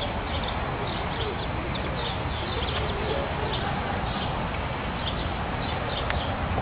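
A flock of flamingos calling, with short scattered honks and chirps over steady background noise.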